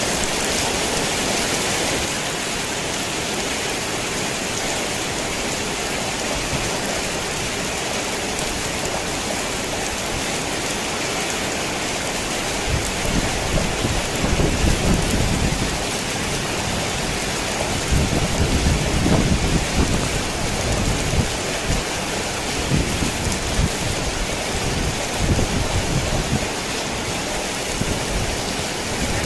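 Heavy rain falling on a tin roof as a steady, dense hiss. From a little under halfway in, low thunder rolls in long rumbles that come and go until near the end.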